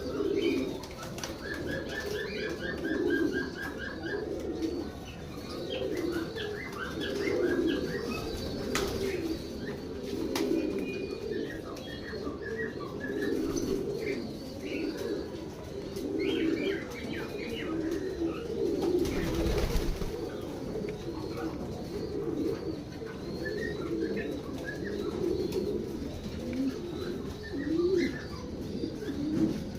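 Many domestic pigeons cooing over one another without pause, with higher chirps scattered above the cooing and a short rushing noise about two-thirds of the way through.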